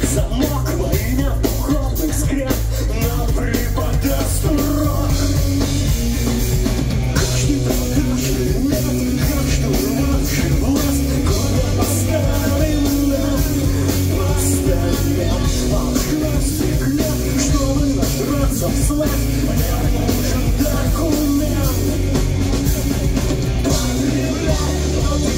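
A live pop-punk rock band playing loudly, with singing over a drum kit and a heavy, steady low end.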